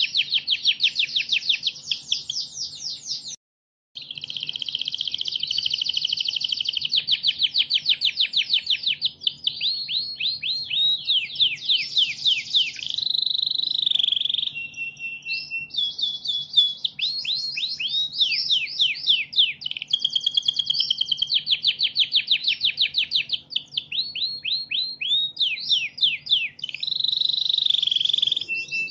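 Recorded songbird song, with several species' songs played in turn: fast, high-pitched repeated chirps, trills and sweeping notes, nearly without a break. The recording cuts out briefly about three and a half seconds in, and a faint low hum runs underneath.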